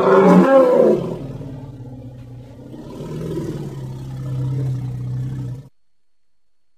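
Mammoth roar sound effect: a loud pitched roar for about a second, falling into a lower drawn-out growl that swells again and then cuts off suddenly.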